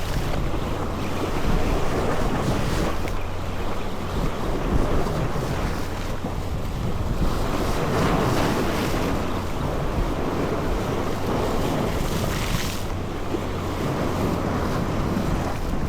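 Wind buffeting the microphone over the steady wash of sea water around a boat, with a few louder surges of water noise.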